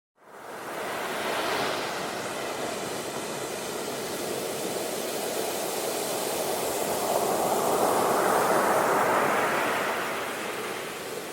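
Sea waves washing onto the shore as a steady rush of surf. It fades in at the start, swells to its loudest about two-thirds through as a wave surges in, then eases off.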